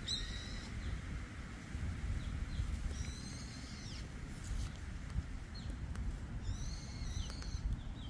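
Wild birds calling: a short call at the start, then two longer calls about three and seven seconds in, over a low steady rumble.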